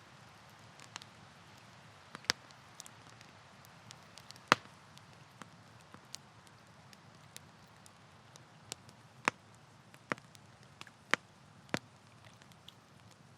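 Campfire crackling: irregular sharp pops and snaps of burning wood, the loudest about four and a half seconds in, over a soft steady hiss.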